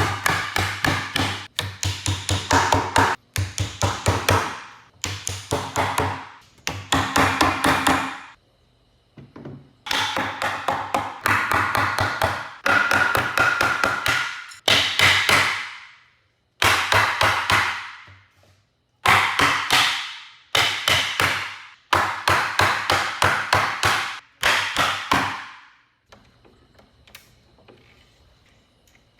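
A hammer tapping in quick runs of rapid strikes, several runs with short pauses between them, stopping a few seconds before the end.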